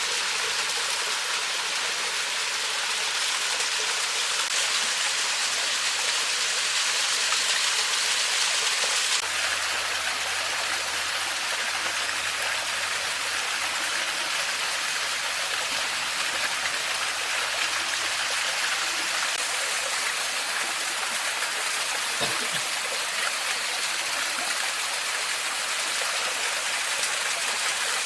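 Stream water running steadily, an even rushing hiss that becomes softer and duller about nine seconds in.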